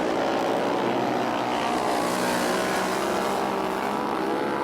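Several flat-track racing motorcycles running at speed around the dirt oval, their engine notes overlapping in a steady, loud drone.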